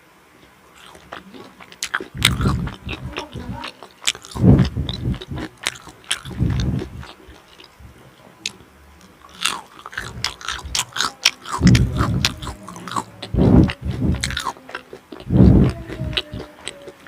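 Close-miked eating: bites and chewing, with many sharp irregular clicks and several heavier chewing bursts spaced a second or two apart.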